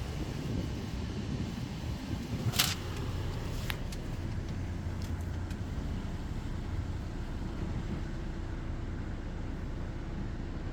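Ryko SoftGloss Maxx 5 automatic car wash running, heard from inside the car: a steady low rumble of the wash machinery, with a short sharp burst about two and a half seconds in and a fainter click a second later.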